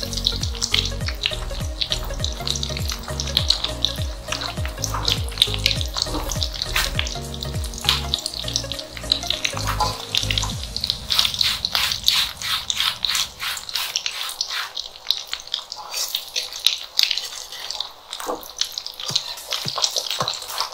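Turubuk fritters frying in hot oil in a metal wok: a dense, continuous crackle and sizzle of spattering oil. Background music with a steady beat plays under it and fades out about halfway through.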